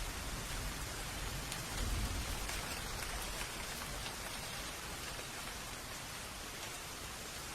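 Steady rain falling, with scattered ticks of individual drops and a brief low rumble about two seconds in.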